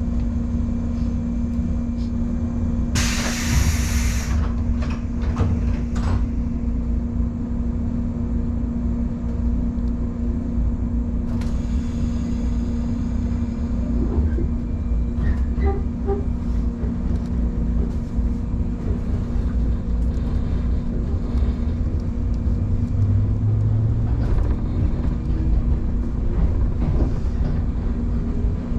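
Electric train pulling out of the station: a steady low rumble and hum of the running car, with a short loud hiss of air about three seconds in and a fainter hiss about twelve seconds in.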